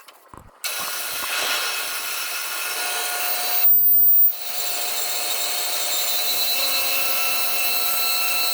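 Power tool cutting through metal exhaust pipe: a loud, steady, high-pitched screech that starts abruptly about half a second in and surges briefly louder around the middle.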